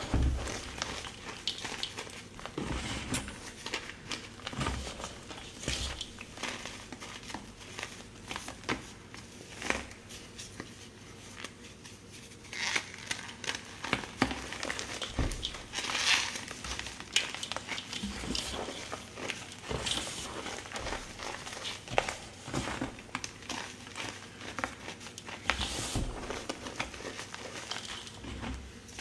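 Hands crushing and crumbling blocks of gym chalk: an irregular run of crunching crackles and scrapes, easing off briefly in the middle.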